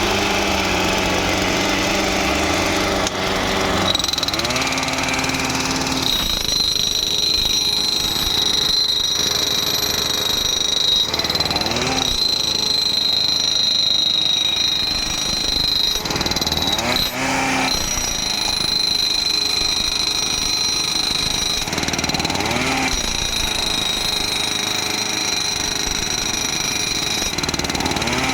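Power ballast tampers packing ballast under railway sleepers: a loud, continuous hammering rattle over small engines, with a steady high whine.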